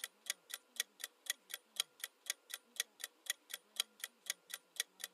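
Countdown timer sound effect: clock ticks, about four a second, steady and even.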